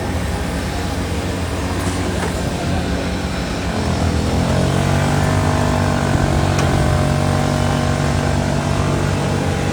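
Moto2 racing motorcycle engine running, its pitch rising about four seconds in and then holding steady at higher revs, over general pit-lane noise.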